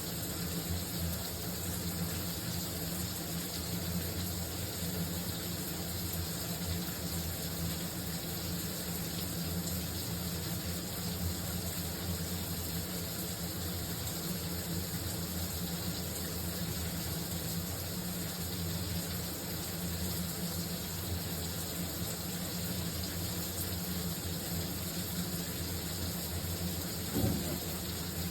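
Shower running steadily, water spraying down in a constant even hiss with a low hum beneath it. A short dull bump sounds near the end.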